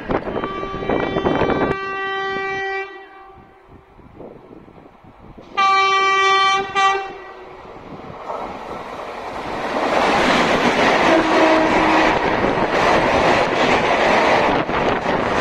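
Express train's locomotive horn sounding two blasts, a long steady one and then a shorter, louder one, as the train approaches. The train then runs through at speed with a loud rush and rapid clatter of wheels over the rail joints.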